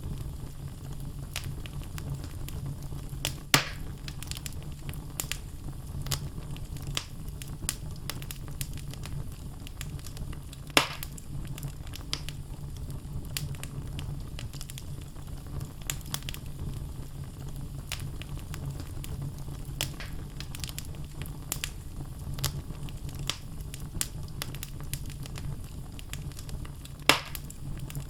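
Wood fire burning in a fireplace, logs crackling with scattered small clicks over a steady low rumble of flame. Three louder sharp pops stand out, near the start, about a third of the way in, and near the end.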